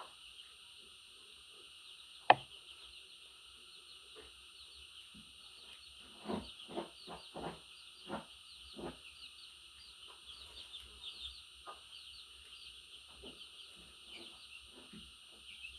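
Budgerigar chattering softly with a continuous stream of quick high chirps. There is a sharp click about two seconds in and a run of knocks or taps around the middle.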